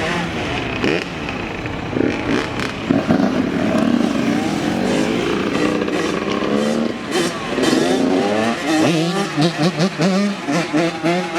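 Dirt bike engines revving, their pitch sweeping up and down again and again.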